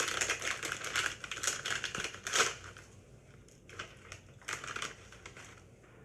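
Crinkly bag of Paqui Haunted Ghost Pepper chips rustling as it is handled. The crackling is dense for the first couple of seconds, then thins to scattered crinkles.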